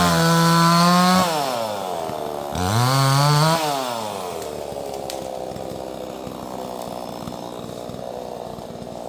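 Neotec 68cc two-stroke chainsaw at full throttle, let off about a second in, opened up again for a second or so around three seconds in, then dropping back to an uneven idle.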